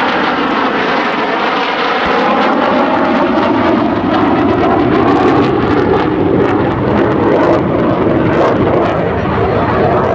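North American F-100 Super Sabre's J57 turbojet roaring past on a flyby: a loud, steady rush of jet noise whose pitch falls over the first few seconds as the jet goes by.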